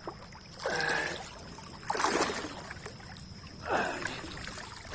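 River water splashing and sloshing in three short surges over a faint steady flow of water.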